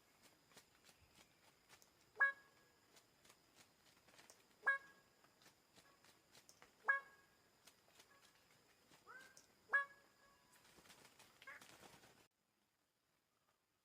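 A bird giving loud, short, honking calls, four of them about two and a half seconds apart, with a quieter call between the last two. A steady high-pitched whine runs underneath, and everything cuts off abruptly near the end.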